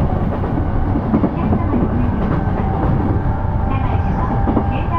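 Cabin sound of an E233 series electric train running steadily: a continuous low rumble with a steady motor and inverter whine, and scattered knocks of the wheels over the rails.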